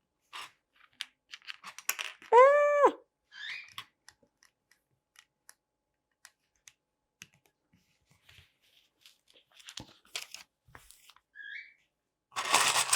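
LEGO bricks being handled and pressed together: scattered light clicks and taps. A single short high-pitched call, rising then falling, about two seconds in, is the loudest sound, and a burst of rustling starts near the end.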